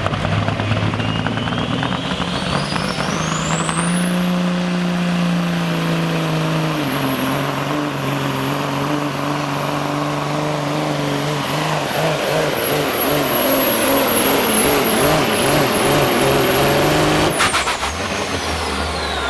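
Diesel semi truck under full load pulling a sled. Its turbocharger whistle climbs over the first few seconds to a high, steady shriek and holds there, while the engine note steps down once. The whistle cuts off and falls away near the end as the throttle comes off.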